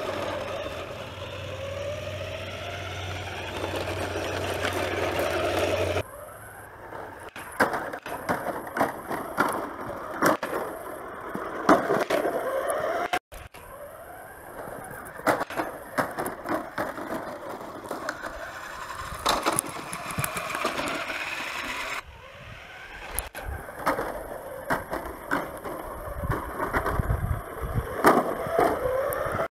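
Radio Shack Extreme Machine RC monster truck's dual electric motors whining, the pitch rising and falling with speed, with frequent sharp knocks and clatter as the truck jolts over bumps.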